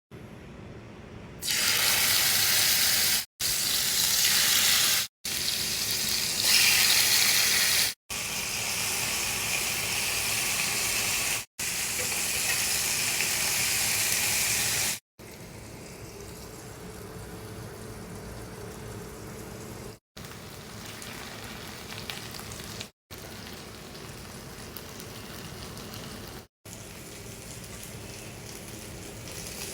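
Chicken pieces shallow-frying in hot oil, sizzling. The sound comes in a series of short stretches with brief silent breaks between them; the sizzle is loud for the first half and much quieter after about fifteen seconds.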